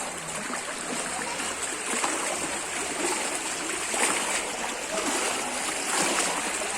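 Floodwater flowing steadily, with irregular splashes every couple of seconds.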